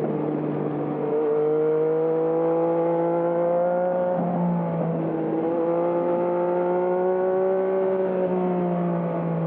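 2020 Yamaha MT-09's three-cylinder engine through a Termignoni exhaust, pulling under steady throttle with its pitch slowly rising. There is a gear change about four seconds in, then it pulls again and eases off slightly near the end.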